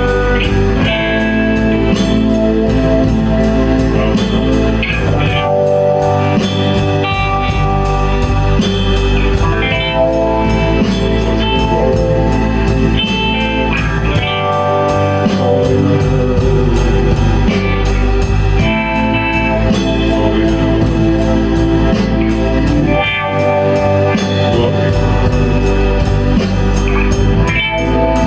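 Blues-rock band playing live, with electric guitar and drum kit, loud and steady; the deepest bass drops out briefly three times.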